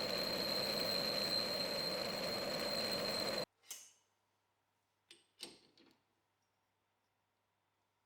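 Mini lathe running a G-code turning pass, a steady machine sound with a constant high whine, that cuts off abruptly about three and a half seconds in. A few faint clicks follow.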